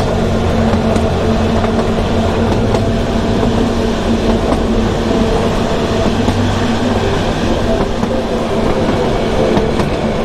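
Kalka–Shimla narrow-gauge toy train running: a steady rumble and hum of the moving train, with faint wheel clicks on the rails.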